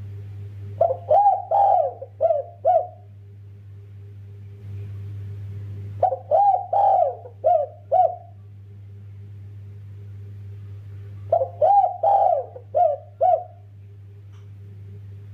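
Spotted dove (derkuku) cooing: three phrases of about five coos each, roughly five seconds apart, over a steady low hum.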